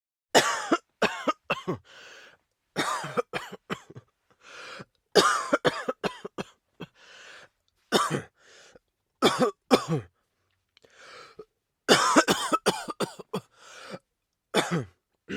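A person coughing in repeated fits, three or four hard coughs at a time, with a raspy in-breath between the fits.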